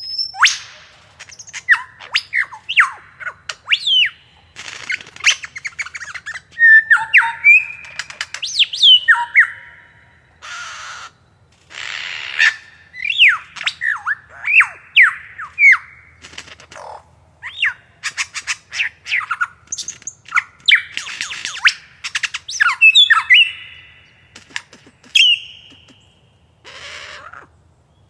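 A bird calling and singing in short phrases of quick whistled sweeps, some rising and some falling, mixed with harsh raspy notes, with brief pauses between phrases.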